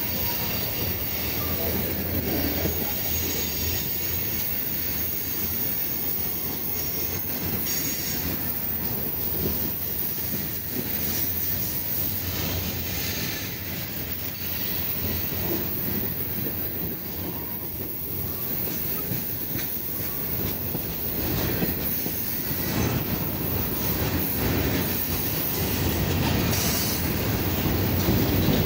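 Freight train of tank cars and covered hoppers rolling slowly past close by, steel wheels running on the rails with some high wheel squeal. The sound grows louder near the end.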